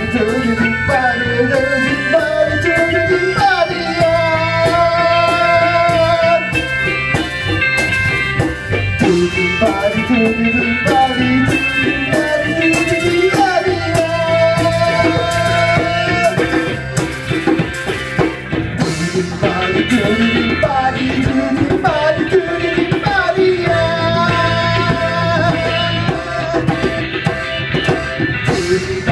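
A live band playing with steady drums and a lead melody line that slides and bends in pitch.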